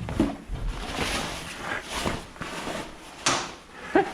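Rustling and handling noise of a fabric cover being pulled and adjusted over an air compressor, in irregular swells.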